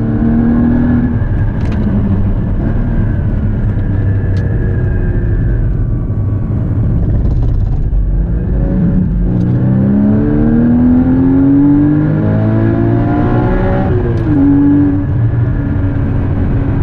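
Porsche Cayman GT4's naturally aspirated flat-six heard from inside the cabin at speed on track. Revs fall in the first second, then climb steadily for about six seconds before a quick drop at a gear change, after which the engine holds a steady note.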